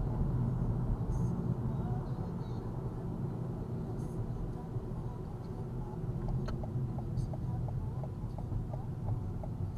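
Steady low rumble of a car's engine and tyres heard from inside the cabin. About six seconds in, the turn-signal indicator starts ticking in a quick, even rhythm for the coming left turn.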